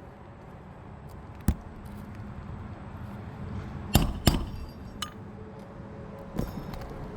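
Roofing hand tools clinking and knocking on a shingle roof: a few sharp metallic strikes, one about a second and a half in, a quick pair near the middle and another near the end.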